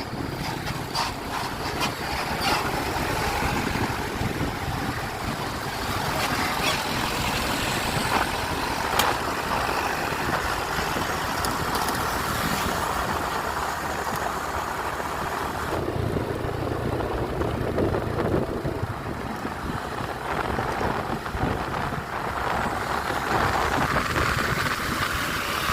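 Road traffic with a truck engine running: steady engine and tyre noise, with a few sharp clicks in the first ten seconds and a change in the mix about sixteen seconds in.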